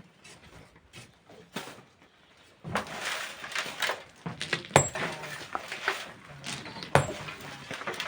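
Hand tools working sand and stone: a rough scraping and rustling starts about two and a half seconds in, with two sharp metal-on-stone strikes about two seconds apart, the first ringing briefly.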